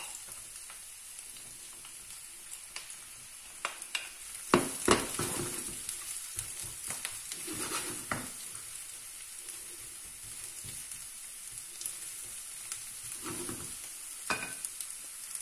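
Diced aubergine frying in hot oil, a steady sizzle, with a wooden spoon scraping and knocking against the pan as the pieces are stirred, loudest about four to five seconds in.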